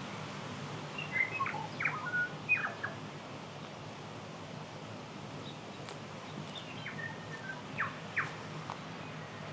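A songbird singing two short phrases of quick whistled notes and sharp clicks, about five seconds apart, over a steady background hiss.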